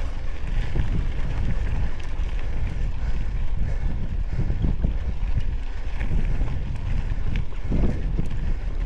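Wind buffeting the microphone while moving along a trail: a steady low rumble with a few small clicks and rattles.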